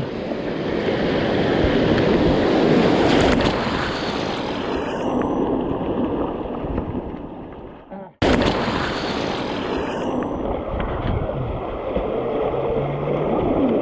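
River water rushing and splashing around a kayak running down the middle of a riffle, with wind buffeting the action-camera microphone. The rush fades and cuts out abruptly about eight seconds in, then comes straight back.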